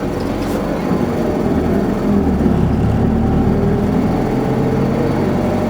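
Isuzu Erga city bus's 5.2-litre four-cylinder turbodiesel running under way, its engine note lifting a little about two seconds in.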